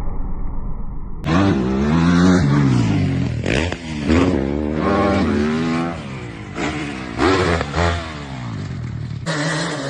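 Dirt bike engines revving, the pitch rising and falling repeatedly as the throttle is worked, with abrupt cuts between different clips about a second in and near the end.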